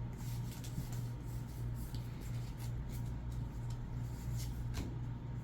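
Pokémon trading cards and packs being handled, with soft rubbing and a few light clicks, the sharpest about five seconds in, over a steady low hum.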